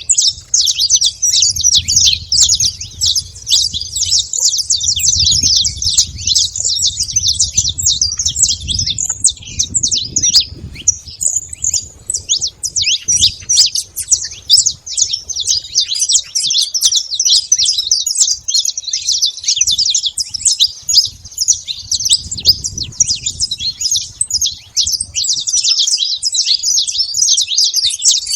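Flock of saffron finches chirping and singing together: a dense, unbroken chatter of many overlapping short calls, with a faint low rumble coming and going underneath.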